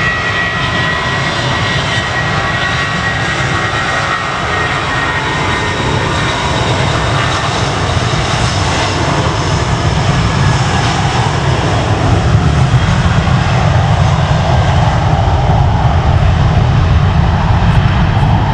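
Airbus A330-200F freighter's twin Pratt & Whitney PW4168A turbofans at takeoff power: a loud, steady rush of jet noise. A thin high whine fades within the first couple of seconds, and the noise grows louder through the second half.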